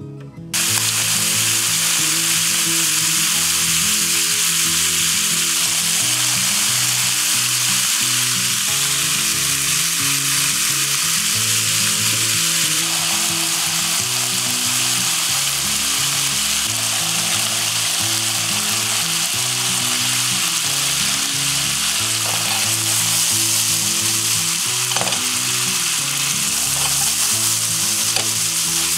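Chicken livers and hearts sizzling in hot olive oil in a frying pan. The steady sizzle starts abruptly about half a second in. A few light knocks come near the end.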